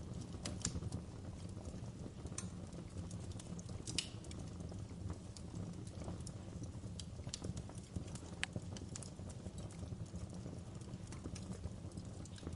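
Wood fire crackling in a fireplace: irregular sharp pops and snaps over a low, steady rumble of the flames, with one louder pop about four seconds in.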